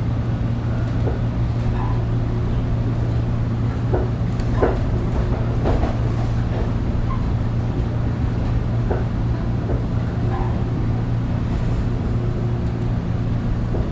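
Interior of a Toronto TTC Line 2 subway car running: a steady low hum and rumble with scattered short clicks and knocks.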